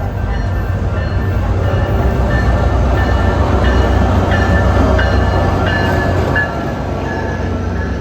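A SunRail diesel-hauled commuter train passing close by: a steady low rumble of engine and wheels, with a few short high squeals and clicks from the wheels on the rails in the middle. It gets quieter about six and a half seconds in.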